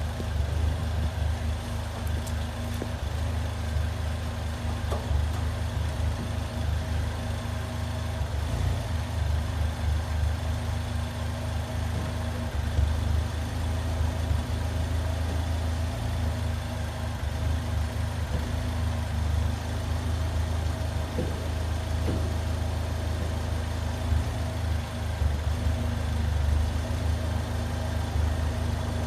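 Mini Cooper S R56's turbocharged 1.6-litre four-cylinder engine idling steadily through its stock exhaust, a constant low rumble.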